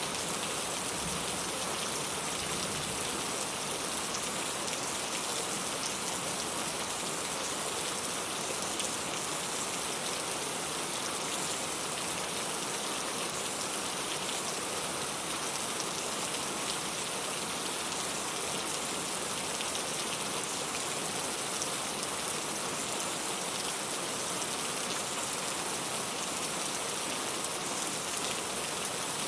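Steady rain falling, with many fine drop patters on a surface.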